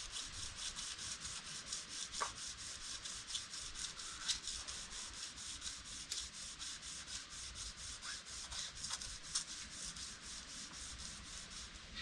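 Sandpaper being rubbed by hand over a truck's body panels in quick, even back-and-forth strokes, about four a second: final sanding before paint.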